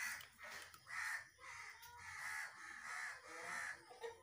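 Birds calling over and over, about two short calls a second, with a soft splash at the very start as the last soaked chickpeas drop from a colander into a pressure cooker of warm water.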